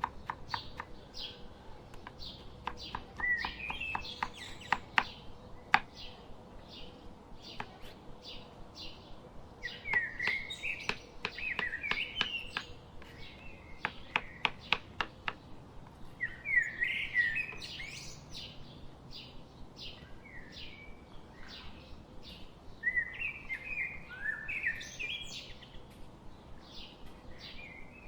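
Birds chirping and singing outdoors: a short high chirp repeats steadily, with warbling song phrases breaking in every few seconds. Runs of sharp clicks come in places, the loudest about six seconds in.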